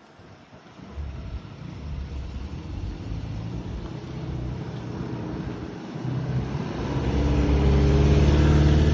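Datsun 510 Bluebird's stock L-series inline-four engine running, its low note starting about a second in and growing steadily louder, loudest near the end.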